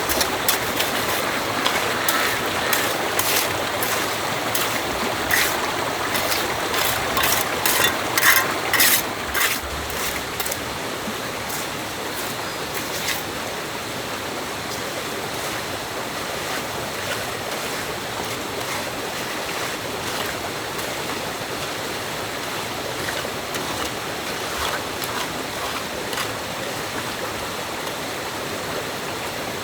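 Stream water rushing steadily, with a run of sharp knocks through the first dozen seconds, densest about eight to ten seconds in.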